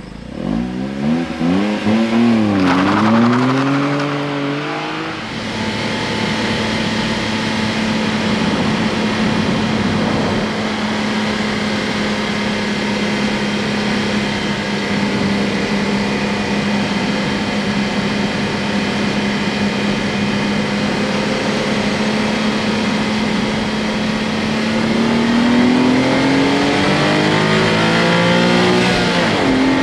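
Honda S660's small turbocharged three-cylinder engine, heard from the rear: it revs up and down a few times, then holds a steady drone while cruising. Near the end it climbs in pitch under acceleration, dips briefly and picks up again.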